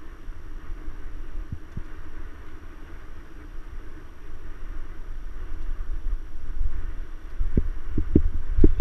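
Mountain bike riding over rough trail: a steady low rumble of wind and movement on the microphone, and from about three-quarters of the way in, a quickening run of knocks and rattles from the bike jolting over bumps.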